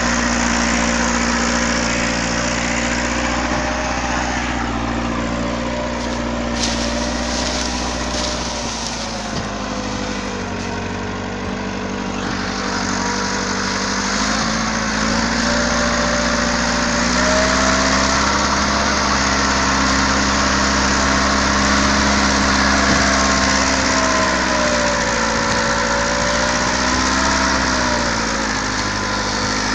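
Tractor engine running steadily, its speed sagging and picking up slightly a few times.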